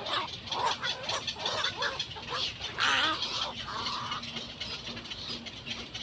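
Birds calling: a string of short squawks and clucks, with one louder, longer call about three seconds in.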